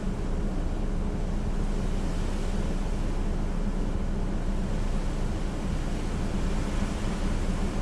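Hurricane wind, a steady rushing noise with a low steady hum underneath.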